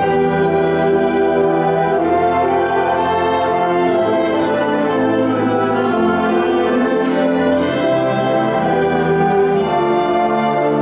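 High school concert band playing a slow passage of held chords, with the brass prominent, the harmony shifting every second or two.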